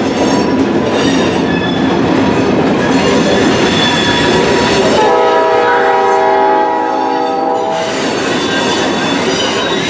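Freight train cars rumbling past, with wind buffeting the microphone. About halfway through, a diesel locomotive's horn sounds one steady blast of about three seconds.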